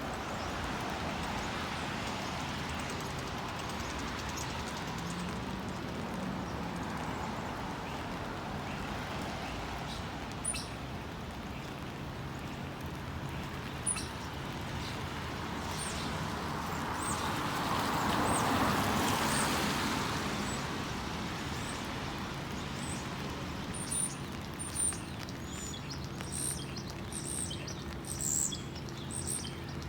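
Small birds giving short, high chirps, a few at first and then many in quick succession near the end, over a steady background of city traffic noise that swells once a little past halfway as a vehicle passes.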